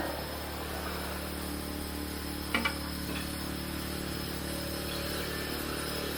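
Steady, low machinery hum, with a short metallic clink that rings briefly about two and a half seconds in.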